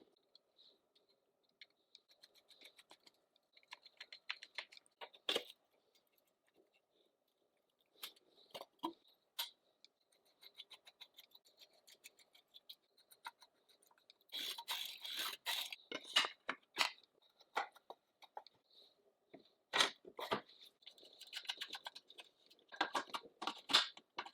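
Irregular clicks, taps and scrapes of hand work on chainsaw parts being restored, with a busier stretch of rapid scraping a little past halfway and a few sharp clicks near the end.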